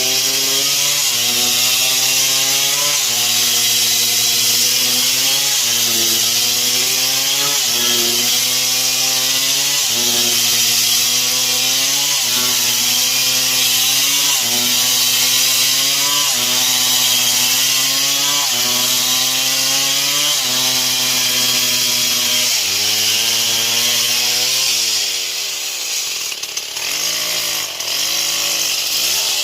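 Stihl MS 070, a large two-stroke chainsaw, cutting through wood at high revs. The engine note sags and recovers every second or two as the chain bites, over a steady hiss of cutting. About 25 seconds in it comes out of the cut and drops toward idle, then is blipped up and down a few times near the end.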